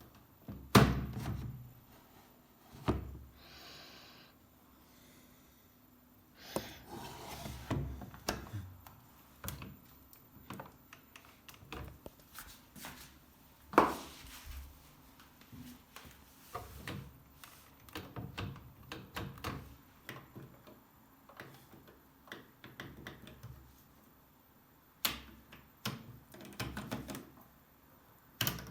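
Handling noises at a washing machine: irregular clicks, knocks and thunks with rustling in between, the loudest knocks about a second in and about halfway through.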